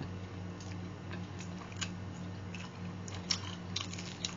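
Close-up eating sounds of people chewing and biting into lumpia (spring rolls): scattered small crunches and wet mouth clicks, a few sharper ones near the end, over a steady low hum.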